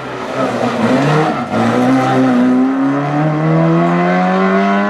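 Classic rally car engine accelerating away at full throttle, its note breaking briefly about a second and a half in and then climbing steadily in pitch.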